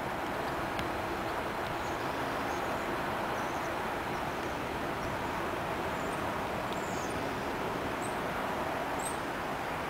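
Steady rushing background noise of distant traffic, with a few faint high bird chirps in the second half.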